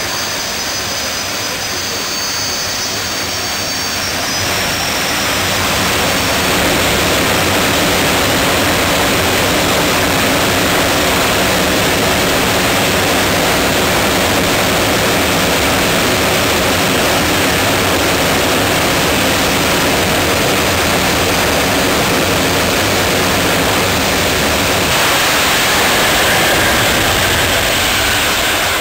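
Jet dragster's turbine engine running: a high whine in the first few seconds, then a loud steady jet roar that swells about five seconds in and holds.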